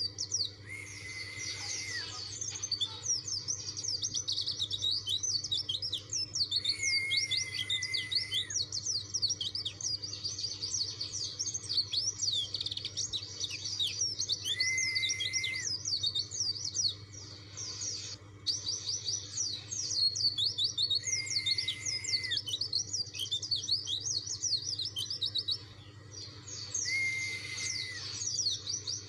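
White-eye (pleci dakun) singing a fast, continuous twittering song of rapid high chirps, broken about every six to seven seconds by a long, level whistled note held for a second or so. This is the insistent song it uses to challenge a rival.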